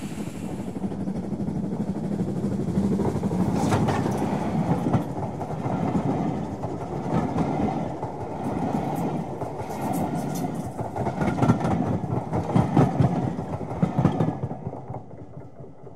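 Railway carriages rolling past: a steady rumble with the clickety-clack of wheels over rail joints, fading out near the end.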